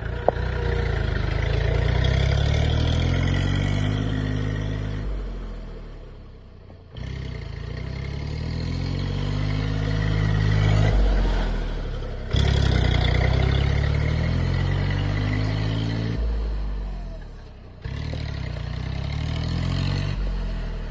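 Tractor engine running and pulling, rising slowly in pitch and loudness over several seconds. The sound is cut off abruptly and restarts three times across spliced clips.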